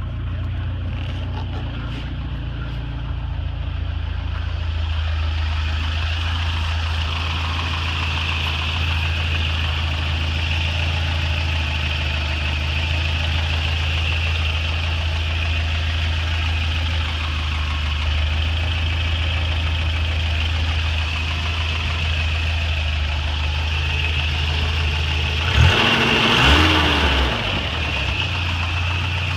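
Toyota 22R-TE turbocharged four-cylinder engine running at a steady speed. Near the end there is a brief louder moment where its pitch rises and falls.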